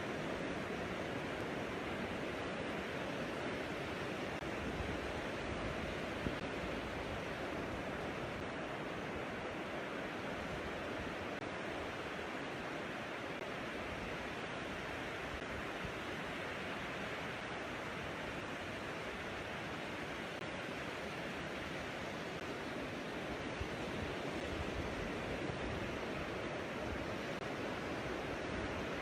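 Pacific Ocean surf washing onto a sandy beach: a steady, continuous rush of breaking waves.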